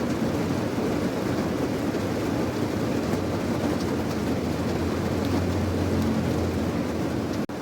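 Steady rain ambience over a deep, continuous low rumble, with a brief dropout about seven seconds in.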